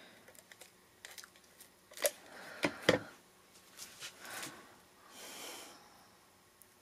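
Paper and cardstock pieces being handled and pressed onto a card: a scatter of light taps and rustles, the sharpest few about two to three seconds in, then a short soft swish.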